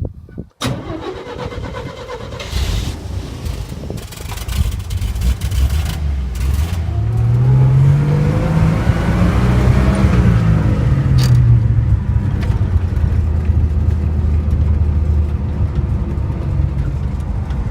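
A 1949 Chevy pickup's 235 cubic inch straight-six engine catches about half a second in on a cold start with the choke set, then runs. Its revs climb and fall back about halfway through, then it settles to a steady run.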